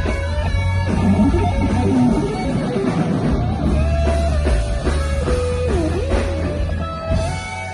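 A band playing live: guitars carrying a melody with sliding notes over bass and drums.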